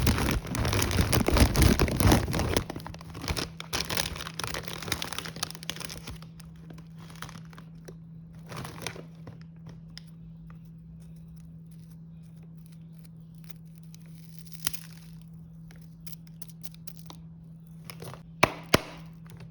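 Plastic snack wrappers crinkling and tearing, dense for the first couple of seconds, then thinning to occasional rustles with a steady low hum beneath, and two sharp clicks near the end.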